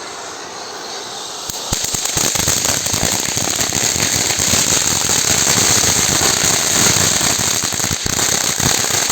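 Ground firework fountain spraying: a steady hiss thick with dense crackling. It steps up louder about two seconds in as the next stage kicks in.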